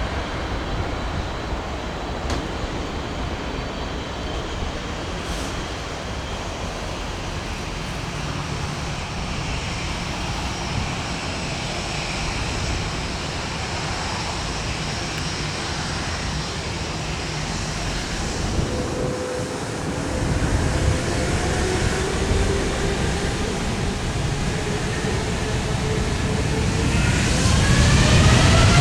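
Jet airliner engine noise, a steady roar with faint whining tones, and near the end a whine rising in pitch as the sound grows louder.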